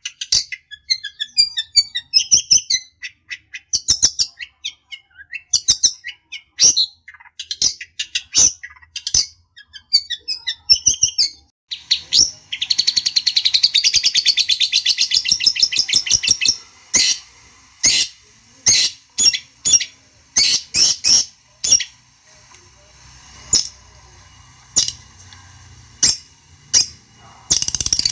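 Long-tailed shrike (cendet) singing: short sharp calls in quick succession, breaking about twelve seconds in into a rapid continuous chatter that lasts some four seconds, then spaced single calls and another rapid run near the end.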